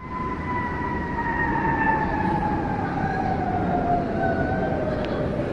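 Jet aircraft flying past: a steady rushing engine noise with a whine that falls slowly and smoothly in pitch as it goes by.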